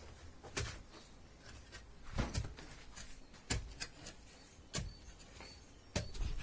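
A series of irregular knocks and clacks, about eight over six seconds, some in quick pairs, over a low background hum.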